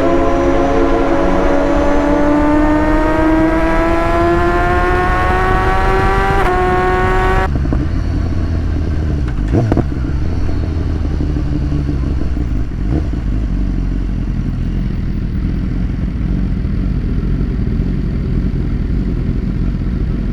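Sport motorcycle engine accelerating, its pitch climbing steadily for about seven seconds with a small step up near the end, then cutting off abruptly to a low steady rumble, with a few faint knocks later on.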